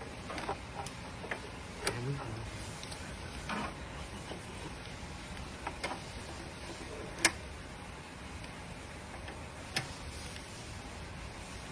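A few sharp clicks or taps at irregular intervals, the loudest about seven seconds in, over a steady background hiss.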